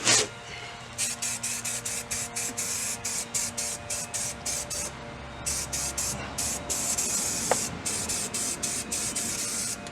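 Aerosol can of undercoating spraying into a car's wheel well: a hiss in many short, quick bursts, cut off and started again over and over.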